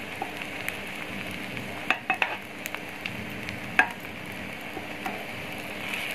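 Beef shami kababs shallow-frying in fat in a metal pan, with a steady sizzle. A metal spoon clicks against the pan a few times, about two seconds in and again near four seconds, as the kababs are turned.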